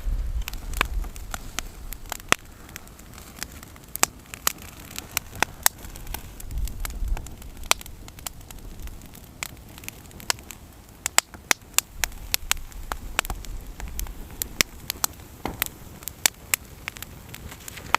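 Wood campfire crackling and popping with sharp, irregular snaps over a faint hiss. A low rumble comes and goes a few times.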